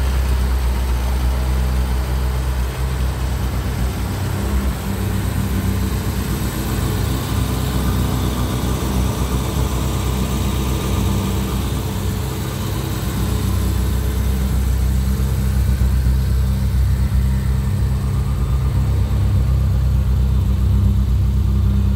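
1968 Morris Mini Cooper S's A-series four-cylinder engine idling steadily, still on part choke after a cold start.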